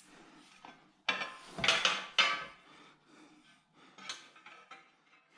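Steel screws and spacers clinking and rattling as they are handled, a cluster of clinks about a second in, then a few fainter ticks near the end.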